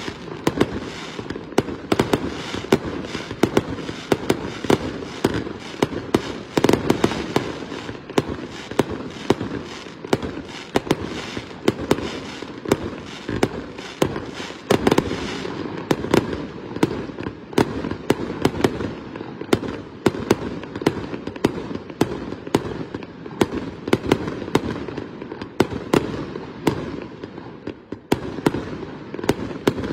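Aerial fireworks display: shells launching and bursting in a fast, unbroken run of sharp bangs, several a second, over a continuous rumble.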